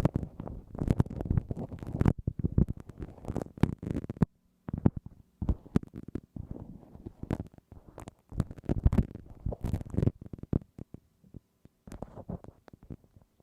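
A bamboo ear pick scraping and scratching in the ear of a binaural microphone: a dense run of close, rustling scrapes and crisp clicks, with a short pause about four seconds in.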